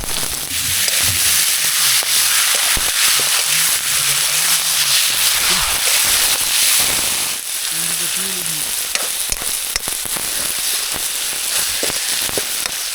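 Tomatoes and onions frying in hot oil in a kadhai: a loud, steady sizzle that swells about half a second in, with scattered clicks from stirring.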